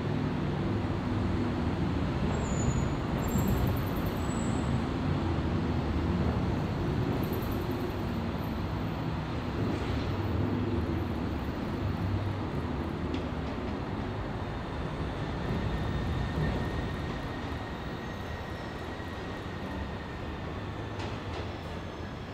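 Electric train running slowly into a station, a steady low rumble of wheels and running gear on the track with a few clicks. A faint steady high tone joins in about two-thirds of the way through.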